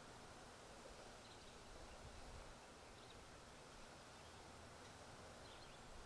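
Near silence: faint outdoor background hiss with a few faint, short, high bird chirps scattered through it.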